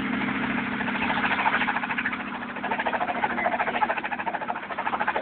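Helicopter running, a fast, even chopping over a steady engine hum.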